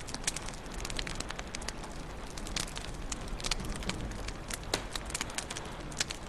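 Wood fire crackling in a fireplace: frequent sharp, irregular pops and snaps over a steady low rumble of flames.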